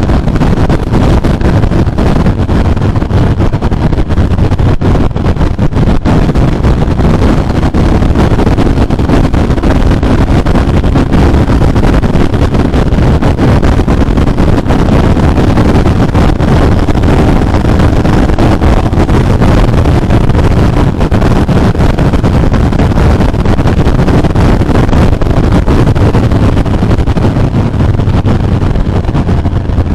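Ducati Monster 796's air-cooled L-twin engine and exhaust running loud and steady, with wind rushing over the microphone.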